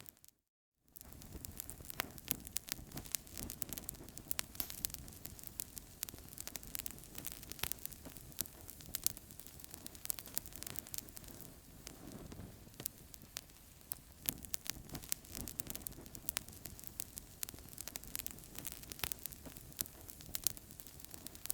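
Fireplace fire crackling: many sharp, irregular crackles and pops over a low, steady rush of flame. The sound cuts out completely for about half a second near the start.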